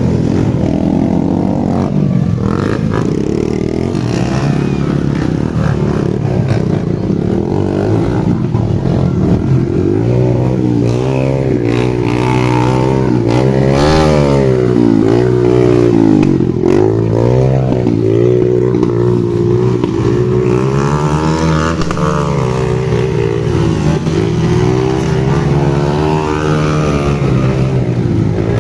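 Motocross dirt bike engines revving up and down, their pitch rising and falling over and over. More than one engine is heard at once, most clearly in the middle stretch.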